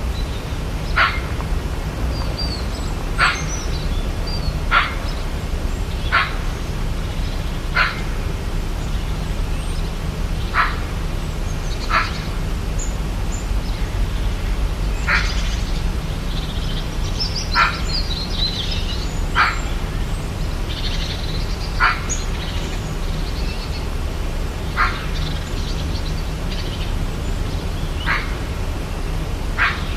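Rainforest ambience: over a steady low rumble, an animal gives a short, sharp call every one to three seconds, with higher bird chirps now and then.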